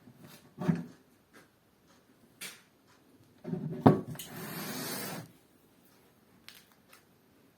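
Handling knocks: a dull knock just under a second in and a sharper, louder one about four seconds in, followed by about a second and a half of rustling noise, with faint light ticks between.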